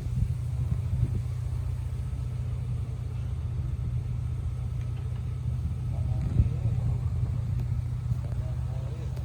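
Suzuki Choinori 50cc single-cylinder moped engine idling with a steady low rumble, its rusty exhaust leaking.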